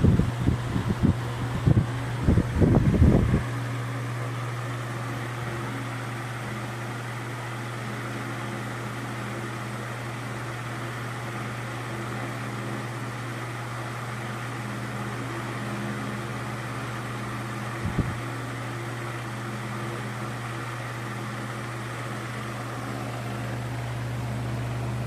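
Ventisol VOP 60 G4 60 cm wall fan running at its maximum speed: a steady low motor hum under the rush of air. Gusts of air buffet the microphone in the first few seconds, and there is a single click about 18 seconds in.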